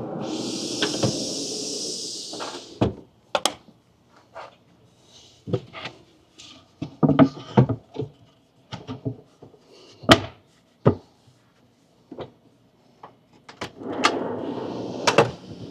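Storage drawers of a camper platform sliding out and back on their runners, with a run of knocks and clicks in between as parts of the platform are handled and set in place.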